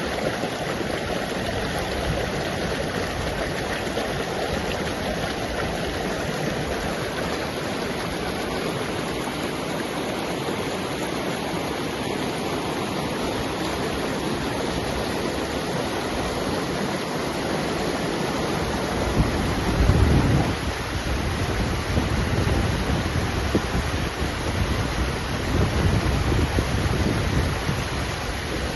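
Steady rushing water noise. From about two-thirds of the way in, gusts of wind buffet the microphone with low rumbles.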